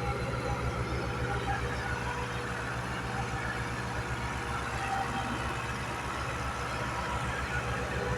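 Tractor diesel engine running steadily with an even low exhaust beat, as it hauls a loaded trolley.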